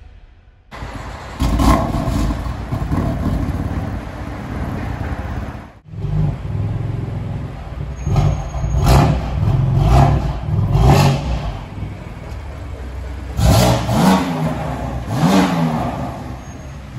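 BMW F80 M3 twin-turbo straight-six on a full aftermarket exhaust, tuned to stage 2+, coming to life about a second in and running, then revved in a quick string of short blips and two longer revs whose pitch rises and falls.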